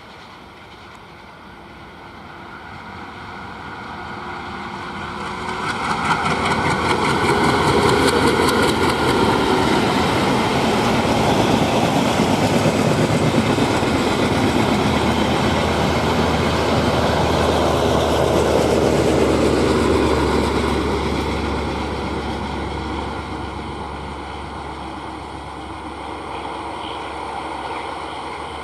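A train passing by on the rails: the rumble and clatter of its wheels build over several seconds, stay loud for about fourteen seconds, then fade away.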